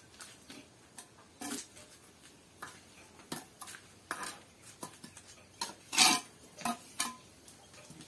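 Irregular light clicks and knocks of hard objects striking one another, with the loudest clatter about six seconds in.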